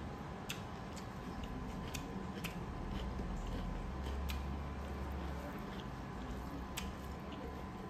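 Close-up eating sounds of chicken curry and rice eaten by hand: irregular sharp, wet clicks of chewing and lip smacking, about one or two a second, over a steady low hum.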